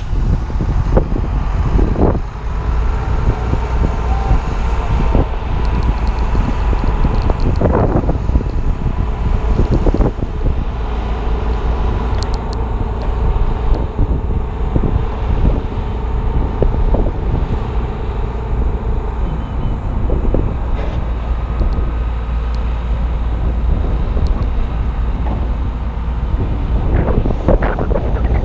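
Strong wind buffeting the action camera's microphone in a steady low rumble, with a few knocks and clatters from the work.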